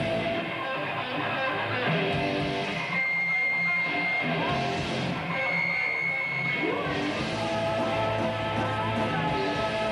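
A metal band playing live, with electric guitars leading and notes held and ringing over the band.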